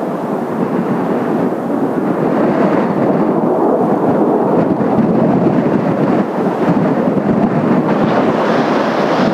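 Steady rumbling roar of the Blue Impulse's Kawasaki T-4 jet trainers in flight, mixed with strong wind buffeting the microphone, swelling slightly in the second half.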